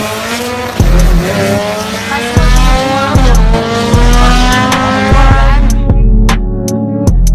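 Car engine accelerating hard in two long rising pulls, its pitch dropping once about three seconds in at a gear change, over music with a thumping beat. The engine sound cuts off suddenly near the end, leaving only the music.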